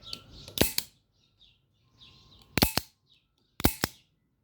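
Smith & Wesson Model 586 .357 Magnum revolver being dry-fired while unloaded: its hammer falls three times, each a quick pair of sharp metallic clicks as the action works.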